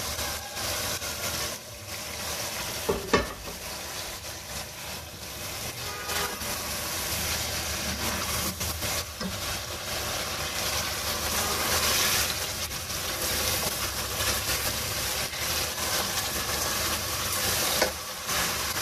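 Fried chicken pieces sizzling in oil and spice masala in an aluminium pot while a wooden spatula stirs and turns them. The masala is at the almost-fried (bhuna) stage. There is a sharp knock about three seconds in and another near the end.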